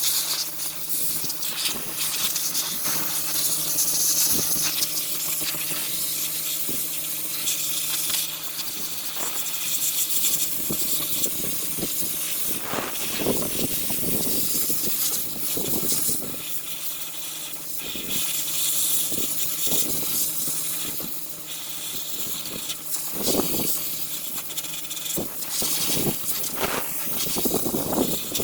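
Sandblaster hissing in uneven spurts as abrasive is blasted at a rusty truck frame, over a steady low hum.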